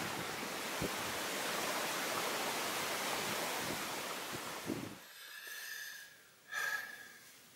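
A small mountain brook flowing over stones, a steady rush of water. It cuts off about five seconds in to a much quieter car interior, where one brief faint noise is heard.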